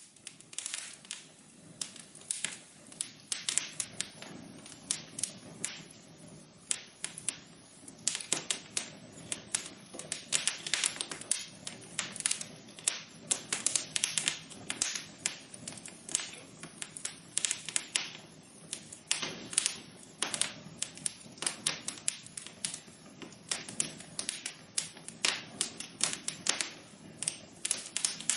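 Wood fire crackling: a dense, irregular run of sharp pops and snaps over a steady low hiss of burning.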